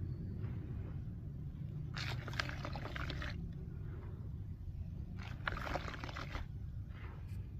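Chunks of gritty dry cement crumbling and crunching, in two bursts of crackling grit a few seconds apart, over a steady low hum.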